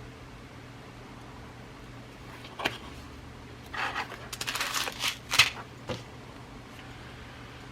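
Glass seed beads rattling and clinking as they are handled. A sharp click comes first, then about two seconds of rattling in the middle, with a last click after it.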